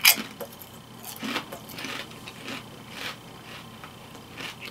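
Kettle-style potato chips crunching as they are bitten and chewed: a sharp crunch at the start, then a run of irregular smaller crunches.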